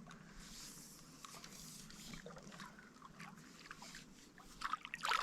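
Faint water splashing and trickling, with small clicks throughout and a louder clatter near the end.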